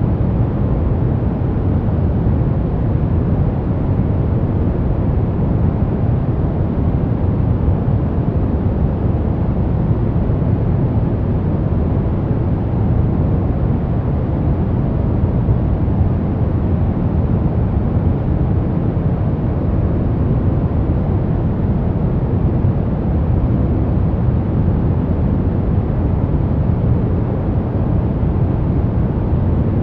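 Steady white noise for baby sleep, deep in tone, with most of its energy low down and little treble, unchanging throughout.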